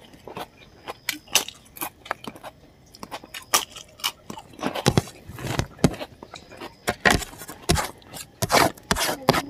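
Close-miked eating by hand: wet chewing and lip smacks, with fingers squishing rice into curry gravy, a run of irregular clicks and smacks that grows denser and louder in the second half.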